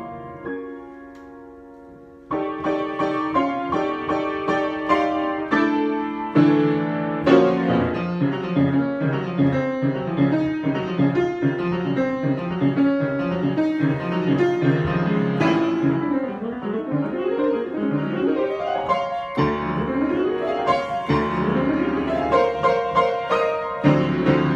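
Solo piano improvisation. A held chord dies away, then playing starts again about two seconds in and fills out with low bass notes from about six seconds in, as a continuous flow of chords and runs.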